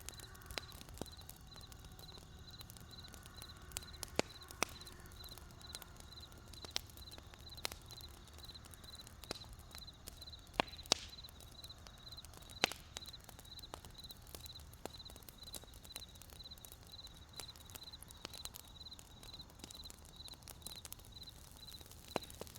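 Wood campfire crackling, with irregular sharp pops and a few louder snaps near the middle, over crickets chirping in a steady, fast-pulsing trill.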